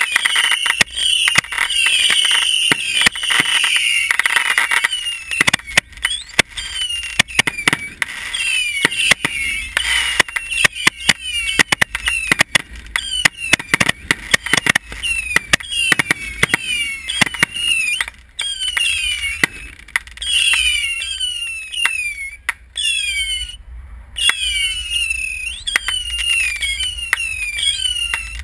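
Consumer fireworks going off in quick succession: many overlapping whistles sliding down in pitch, dense crackling pops, and a low rumble from the bursts.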